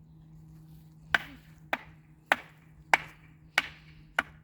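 Repeated hard strikes, like chopping or whacking: six sharp knocks evenly spaced a little over half a second apart, starting about a second in.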